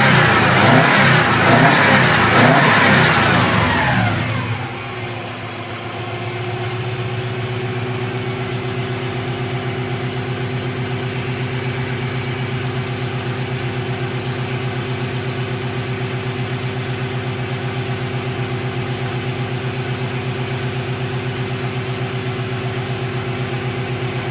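Subaru engine revved high, then dropping back about four seconds in and settling into a steady idle with an even, regular pulse.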